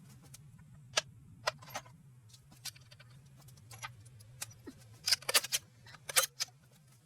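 Irregular metallic clinks and taps of hand tools against metal engine parts during an engine teardown, with a quick flurry of clinks about five seconds in. A faint steady low hum underneath.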